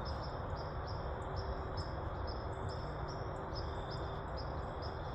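Evenly repeating high-pitched chirping from small animals, about two chirps a second, over a steady low rumble of outdoor background noise.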